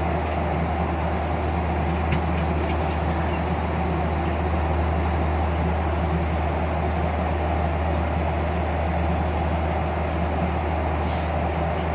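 Steady airliner cabin noise in flight: the low, even drone of a Boeing 737's engines and airflow, with a few faint clicks.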